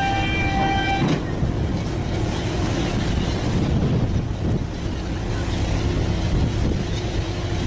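Fishing boat engine running with a steady, heavy low rumble. A steady high tone, like a horn, sounds over it and stops sharply about a second in.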